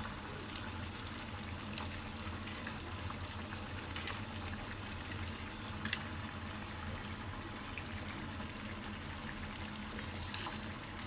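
Spice masala being stirred into a cup of water with a spoon: a steady swishing of liquid with a few light clinks.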